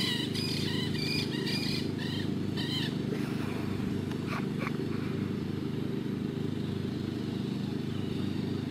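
A bird calling repeatedly, short calls one after another for the first three seconds, over a steady low hum. Two brief rising squeaks follow about halfway through.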